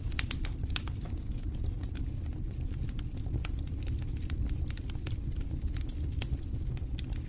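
Wood fire burning in a fireplace: a steady low rumble of the flames with irregular sharp crackles and pops, a quick cluster of them just after the start.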